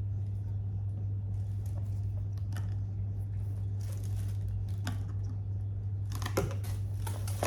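Light rustling and scattered clicks of packaging and plastic parts being handled, over a steady low hum, with a quick run of sharper clicks near the end.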